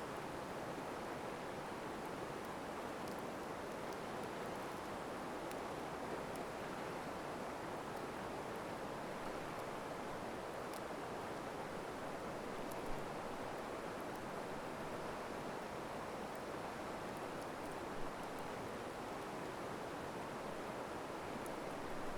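Steady rush of flowing river water, with a wood campfire giving occasional faint crackling pops; two pops stand out a little louder, about halfway through and again later on.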